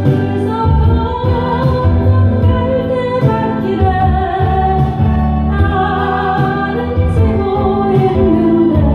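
A woman singing a Korean song live over electronic organ–style keyboard accompaniment.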